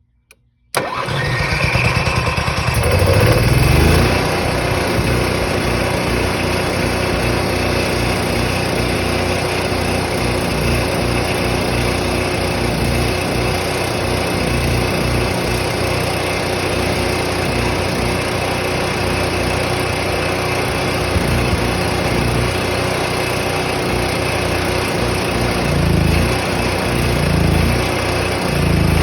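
Onan generator engine catching and starting abruptly about a second in, running louder for the first few seconds and then settling into steady running.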